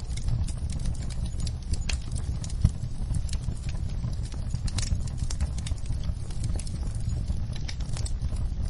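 Wood fire in a fireplace crackling: irregular sharp pops and snaps of the burning logs over a low, steady rumble of the flames, with one louder pop a little under three seconds in.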